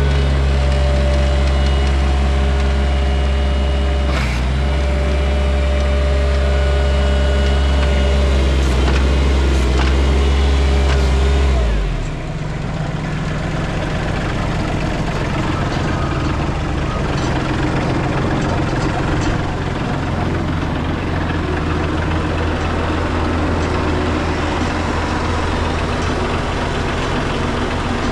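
2016 Bobcat MT85 track loader's diesel engine running steadily. About twelve seconds in its steady drone drops a little and changes, then carries on rougher.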